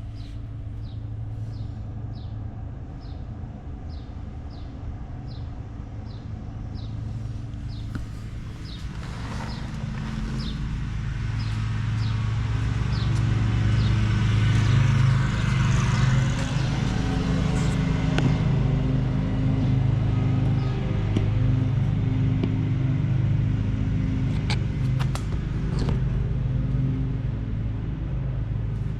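BMW F10 M5's twin-turbo V8 running at idle after a cold start through a race exhaust, growing louder and fuller after about eight seconds. A light regular ticking, about two a second, runs over the idle for the first dozen seconds.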